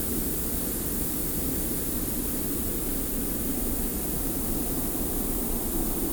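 Steady desert wind with a fine hiss of blowing sand: a low, even rushing and a high hiss that hold unchanged throughout.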